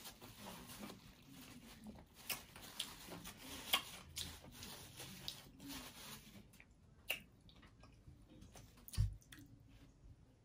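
A person chewing taco salad close to the microphone, with soft wet mouth sounds and scattered sharp clicks and crunches. A single low thump sounds about nine seconds in.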